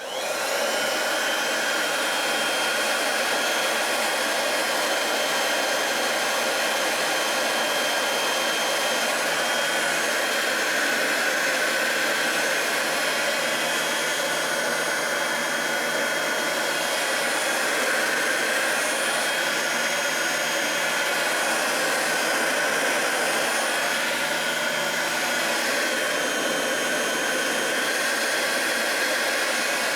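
Electric heat gun switching on and then running steadily, a continuous rush of blown air with a faint steady whine, heating a PVC elbow to soften it.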